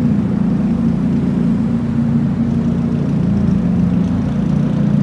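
Car driving along at a steady pace: a steady engine drone with road noise, holding roughly the same pitch throughout.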